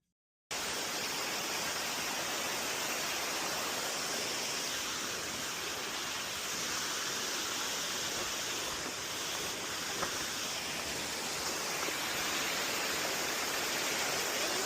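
Steady rushing water of a waterfall or stream, starting abruptly about half a second in and running on evenly.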